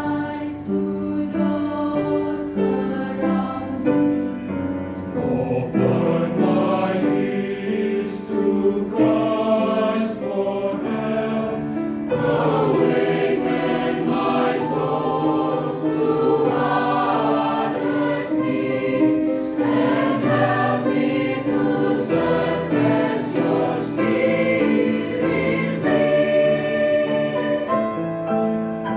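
Church choir singing a sacred anthem in harmony, several voice parts moving together in sustained chords.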